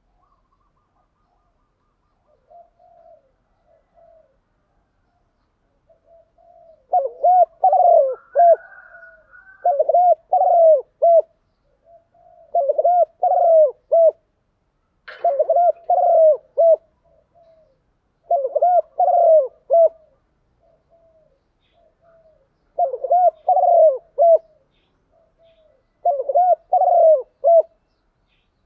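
Spotted dove cooing: a few soft coos at first, then seven loud cooing phrases of repeated notes, a few seconds apart, with softer coos between.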